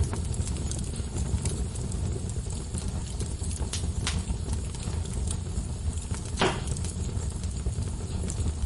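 Wood fire burning in a fireplace: a steady low rumble of flames with scattered small crackles, and louder pops about four seconds in and again about six and a half seconds in.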